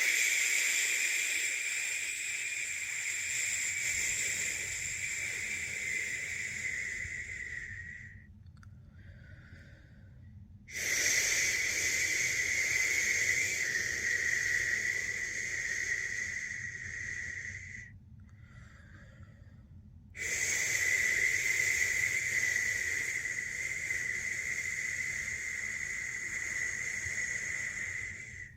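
A person making long 'shhh' shushing sounds to lull a newborn to sleep: three drawn-out shushes of about eight seconds each, separated by short pauses for breath.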